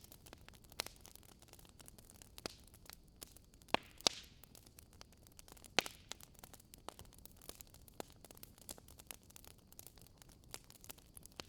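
Campfire crackling: irregular sharp pops and snaps of burning wood over a faint hiss, with a few louder pops around four and six seconds in.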